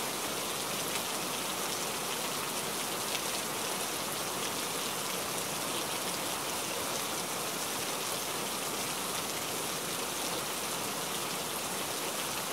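Chicken pieces sizzling steadily as they fry in oil in a nonstick frying pan.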